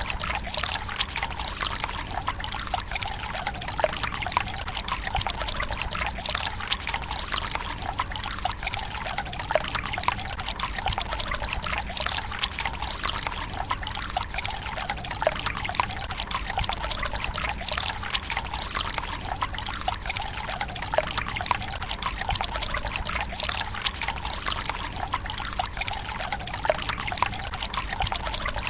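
Water from a bamboo spout pouring in a steady trickle into a Japanese tsukubai stone basin, splashing and dripping without a break.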